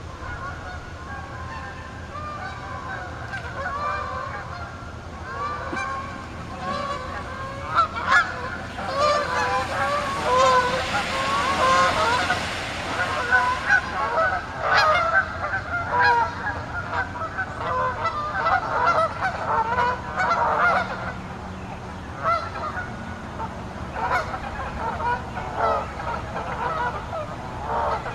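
A flock of Canada geese honking continuously, many calls overlapping, busiest through the middle. A rushing noise joins in about nine seconds in and lasts a few seconds.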